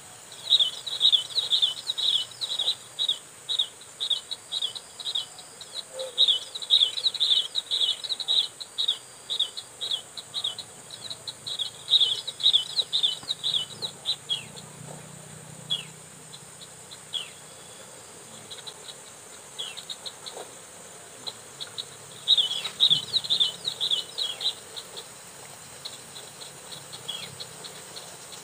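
Prinia (ciblek) calling: sharp high chirps repeated several times a second in quick runs. About halfway through the calls thin to scattered single chirps, then pick up into another short run.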